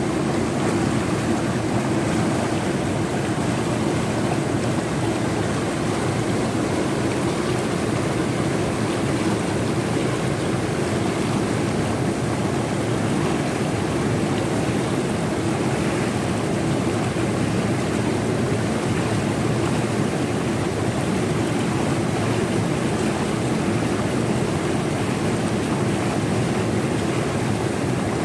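A fast-flowing river rushing steadily, a constant roar of water with no pauses or changes.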